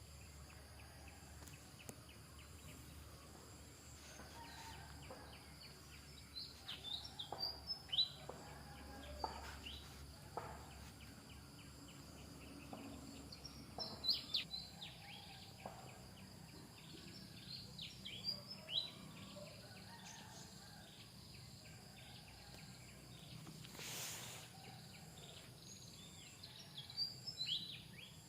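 Faint, short, high-pitched animal chirps, coming in several clusters over a steady background hiss, with a few soft clicks.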